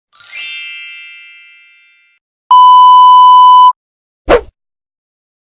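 Three stock sound effects in a row: a bright magical chime with a glittering high sparkle that rings out and fades over about two seconds, then a steady, loud censor bleep lasting about a second, then a very quick downward swish.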